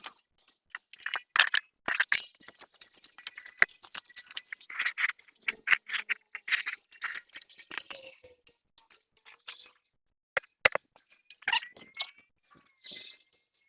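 Irregular clicks, knocks and crunchy scraping from beehive equipment being handled, with the loudest knock about ten seconds in.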